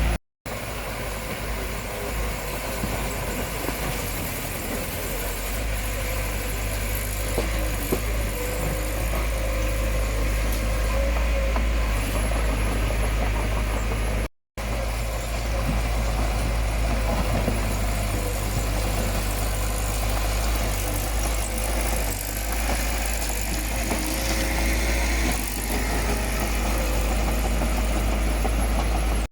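Heavy construction machine's diesel engine running steadily. The sound cuts out for an instant twice, just after the start and about halfway through.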